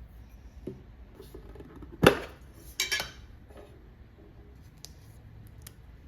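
Objects being handled: a light tap, then a sharp, ringing clink about two seconds in, followed by two quicker clicks close together a moment later.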